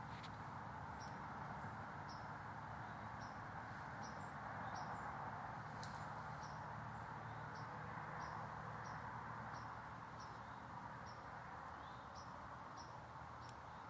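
Faint outdoor ambience: short, high chirps repeating about twice a second from a small animal, over a steady, even background hiss.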